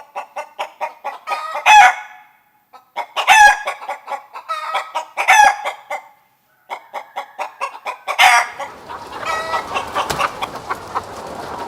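Domestic hen clucking in quick runs that build into loud cackles, four times over, with denser, rougher clucking in the last few seconds.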